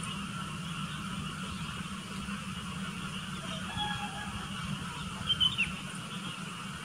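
Birds calling against a steady background hum. A short cluster of sharp calls about five seconds in is the loudest, ending in a falling note.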